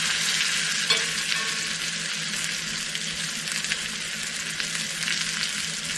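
Chuck roast searing in hot oil in a pan: a steady frying sizzle, with one light tap about a second in.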